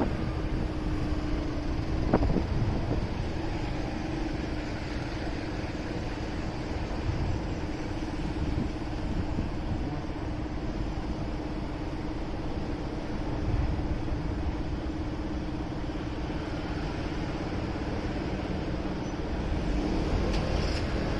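Motorcycle riding along a city street, its engine holding a steady note over road and wind noise. There is one brief click about two seconds in.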